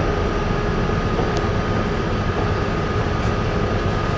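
Steady rumble and hum inside a 1987 Westinghouse R68 subway car, with a thin steady high tone running through it.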